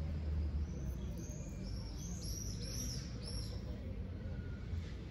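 Small bird chirping: a quick series of short, high, arched notes from about a second in, then stopping a little past the middle, over a low steady rumble.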